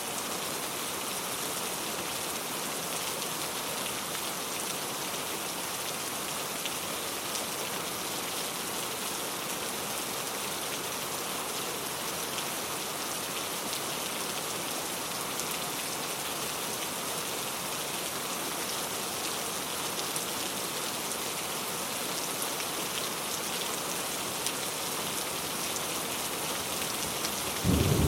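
Steady rain falling. A sudden loud, low rumble of thunder breaks in near the end.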